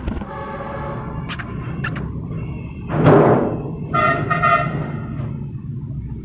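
Alexandrine parakeet calling: a drawn-out tonal call over the first two seconds or so, a louder harsh squawk about three seconds in, then a shorter tonal call, over a steady low hum.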